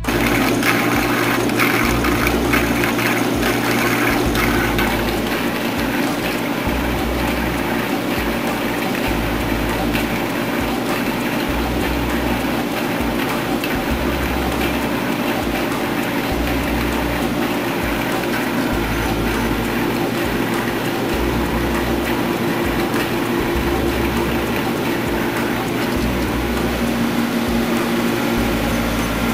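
Hole-drilling EDM machine running: its dielectric water pump gives a steady rushing noise with a hum, and a low rumble cuts in and out every second or two.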